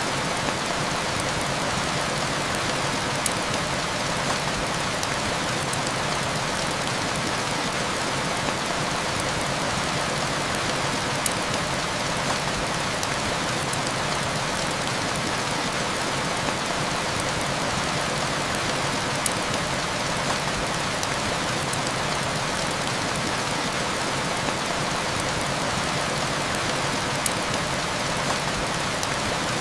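Steady heavy rain hissing, with occasional sharp crackles from a wood fire in a fireplace.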